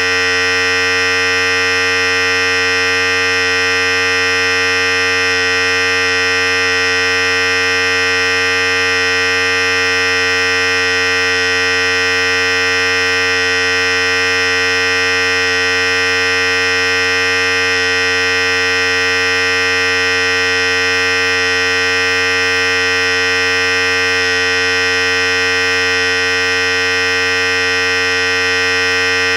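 Philips Series 5000 hair clipper running steadily, an unchanging electric buzz.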